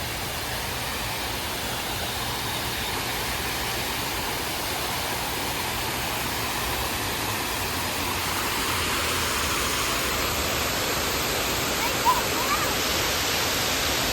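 Small artificial waterfall rushing as a steady, even noise that grows gradually louder as it is approached. Two brief high chirps cut in about twelve seconds in.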